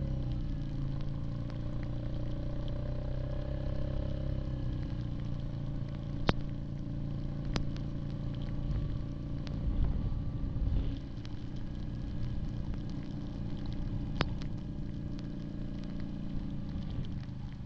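Yamaha Grizzly 700 ATV's single-cylinder four-stroke engine running steadily under way, with a few sharp clicks.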